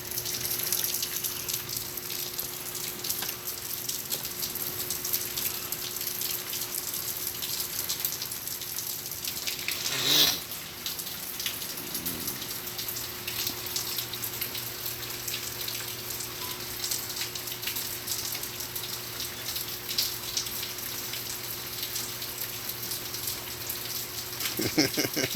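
Steady rain falling, with a constant hiss and close drops pattering, over a steady low hum. One brief louder sound breaks in about ten seconds in.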